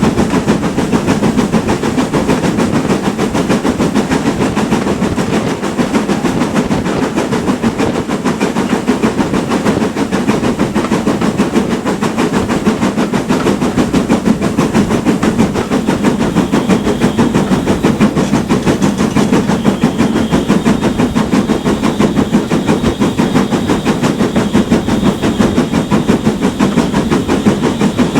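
GWR Manor class steam locomotive working hard, its exhaust beating in a fast, even rhythm over the running noise of the train.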